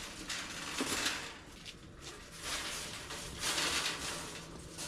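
Bird cage being shoved and dragged through a doorway, giving three rough scraping, rattling bursts.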